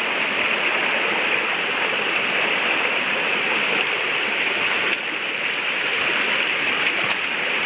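Rushing water of a rainforest river flowing over rocks, a steady, even rush.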